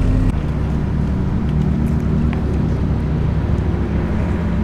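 Car engine running steadily with a low rumble; its note changes slightly about a third of a second in.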